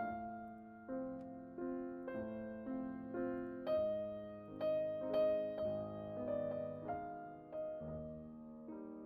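Slow, gentle piano music: soft chords struck about once a second, each ringing and fading.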